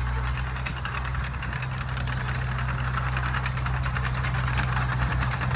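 A motor running steadily, with a low hum under a fast, dense rattling clatter that grows slightly louder.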